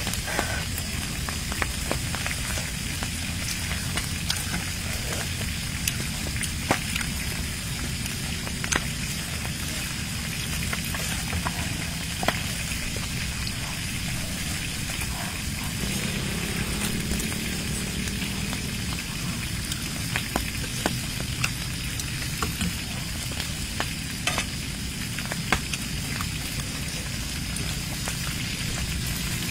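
Close-miked eating sounds: biting and chewing crisp-skinned grilled meat on the bone, with many short wet clicks and crunches scattered over a steady hiss.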